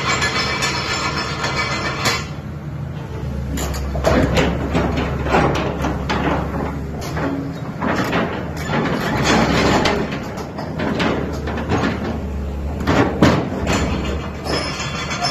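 LiuGong 925D excavator at work: a low engine drone under repeated clanks and knocks, starting about two seconds in and ending shortly before the end.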